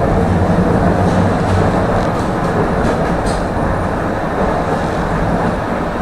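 Tram running along the rails between stops: a steady rumble of its motors and wheels on the track, with a few short clicks over it.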